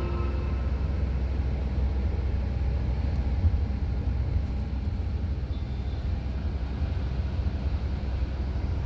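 Steady low rumble of a moving vehicle, road and engine noise heard from inside.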